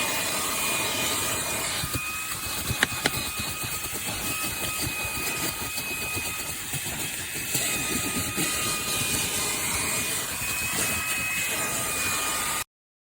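Fanttik Slim V8 Apex handheld car vacuum running: a steady rush of air with a high motor whine, and scattered small clicks. It cuts off suddenly near the end.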